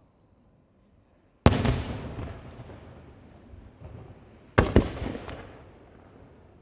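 Aerial firework shells bursting: two loud bangs about three seconds apart, each trailing off slowly. The second is a quick double bang followed by a few crackles.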